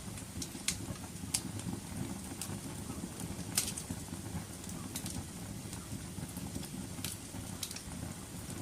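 Wood fire burning in a fireplace, crackling with irregular sharp pops over a steady low rumble of flames. The loudest pop comes a little past a third of the way in.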